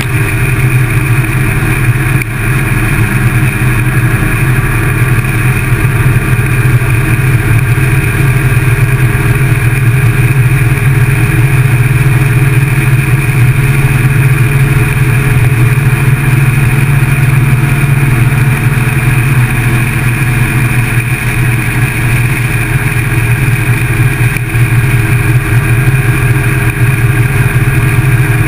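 Motorcycle engine running at a steady speed, picked up by a camera mounted on the bike.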